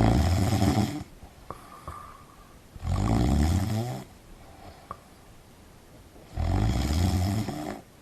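A person snoring heavily: three loud snores, about three and a half seconds apart, with quieter breaths between. The first is already under way and stops about a second in, the second falls near the middle and the third near the end.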